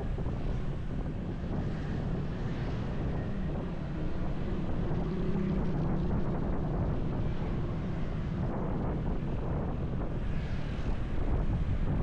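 Motorcycle running along the road, its engine note under heavy wind buffeting on the camera microphone. The engine swells a little about five seconds in.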